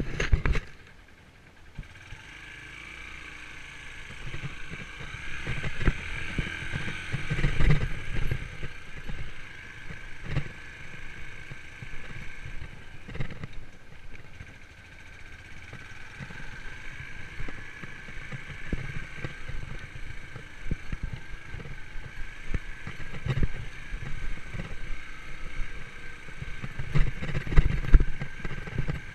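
Yamaha YBR125's single-cylinder four-stroke engine running as the motorcycle is ridden over a rough forest track, with steady engine whine and irregular thumps and rattles from the bumps, heaviest about a quarter of the way in and near the end.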